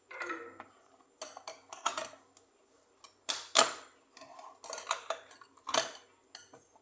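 Dishes and cutlery being handled: a run of sharp clinks and clatters, some with a short ring, the loudest about halfway through.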